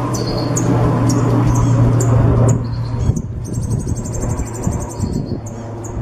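A songbird singing: short high chirps, with a rapid high-pitched trill lasting about two seconds just past the middle. A steady low hum underneath stops about halfway through.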